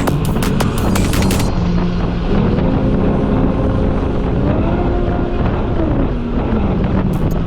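Motorcycle engine running under way, its pitch climbing and dropping as it speeds up and slows, with wind rush over the microphone. Rapid sharp clicks in the first second and a half.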